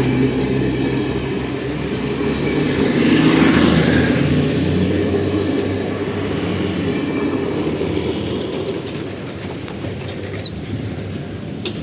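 TCDD İzmir–Nazilli regional passenger train running past, a continuous rumble of engine and wheels on the rails that slowly fades. A thin high whine rises in pitch about four seconds in.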